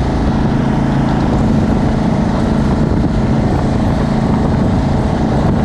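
Jet boat engine running steadily under way, a constant droning hum over a wash of rushing noise.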